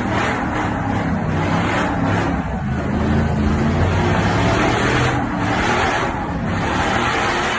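A truck engine running steadily with a low exhaust drone, under a wide rushing noise that swells and eases a few times.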